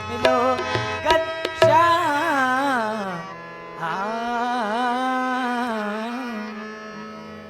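End of a Hindi devotional bhajan. A few tabla strokes come in the first two seconds, then the singer draws out a long, wavering vowel over a steady drone accompaniment, and the music fades away near the end.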